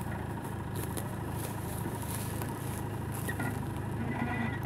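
Land Rover Discovery's engine running steadily at low revs as the vehicle crawls slowly down off a rock ledge.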